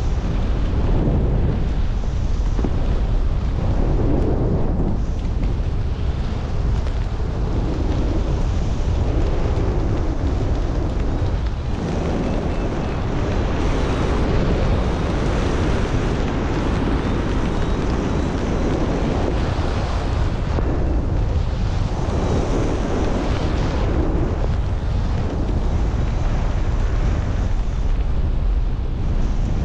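Wind rushing over the microphone in flight: a loud, steady low rumble that swells and eases a little throughout.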